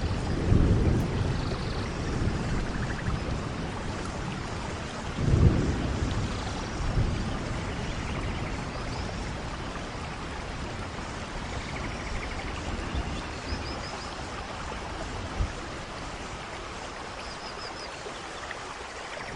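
Steady rain falling, with low rumbles about half a second and five seconds in that then die away.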